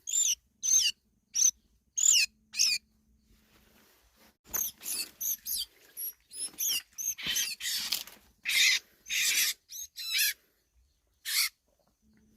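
A small bird calling repeatedly with short, high-pitched chirps, then a quicker run of harsher squawks in the middle.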